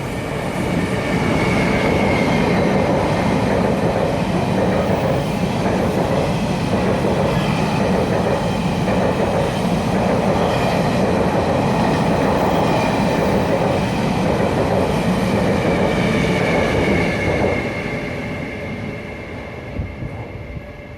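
Taiwan Railway Tze-Chiang express train passing through a station: a loud steady rush of wheels on rail with some clickety-clack and a thin high ringing tone. It swells in about two seconds in and fades away from about 17 seconds.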